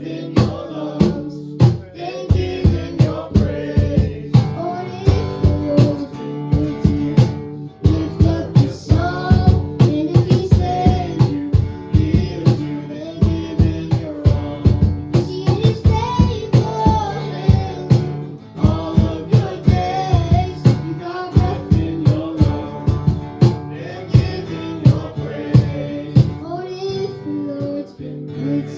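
Live worship band playing, with a drum kit keeping a steady beat under guitar and other instruments.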